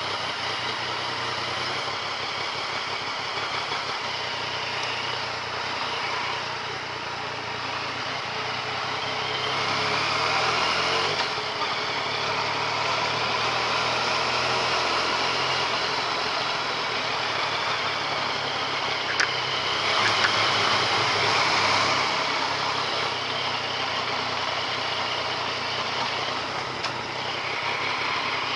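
Yamaha MT-09 Tracer's three-cylinder engine running under way, heard through wind and road noise on the bike-mounted camera. The engine note shifts about a third of the way in, and there is one brief sharp click a little past the middle.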